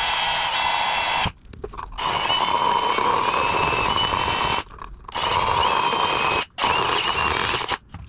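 Power drill running in four bursts of one to three seconds with short pauses between, its whine wavering as the bit cuts an oblong hole for a wiring grommet in a headlight housing.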